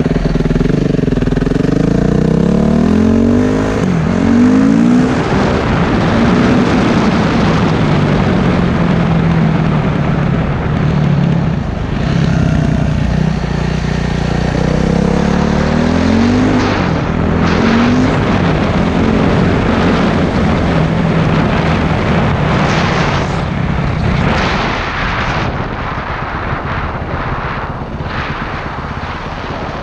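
Motorcycle engine running while being ridden, its pitch climbing and dropping again and again as it revs through the gears, over a steady rushing noise.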